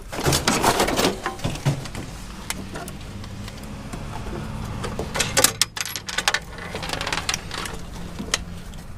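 A steady low engine hum runs under scattered metal clanks and knocks from scrap being handled, with a cluster of clanks about a second in and another, sharper, around five and a half seconds in.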